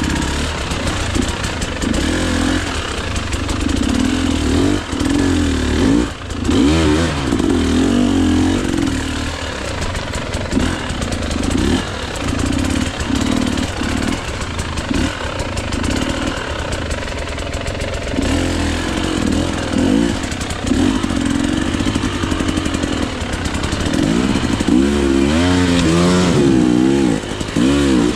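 KTM EXC 300 two-stroke single-cylinder enduro bike engine revving in repeated bursts, its pitch rising and falling with the throttle, with quicker up-and-down sweeps near the end.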